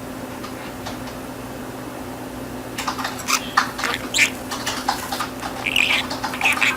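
Budgerigar chattering: a quick run of clicks, chirps and warbling squeaks starting about three seconds in, over a steady low hum.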